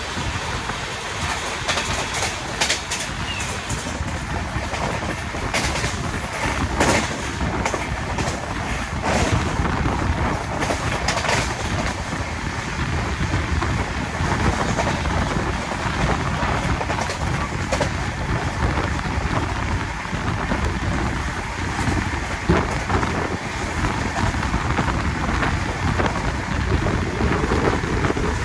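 Express passenger train running at full speed, heard from outside the coach: a steady rush of wind and track noise with the rumble of wheels on the rails. Frequent sharp clacks come in the first part, while a goods train passes close on the next track, and fewer come after that.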